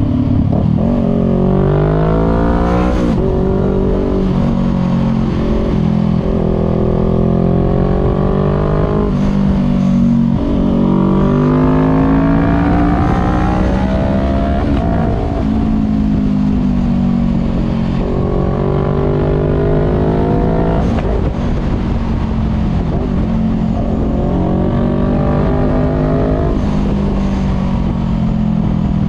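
Voge 500R motorcycle engine on a full exhaust with no dB killer, heard from on board while riding. The revs climb and then drop sharply about four times as it pulls through the gears, over a steady low rumble.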